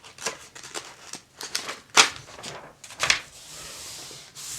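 Paper pages of a glossy catalog being handled, a string of short rustles and taps. The loudest comes about two seconds in and another about three seconds in.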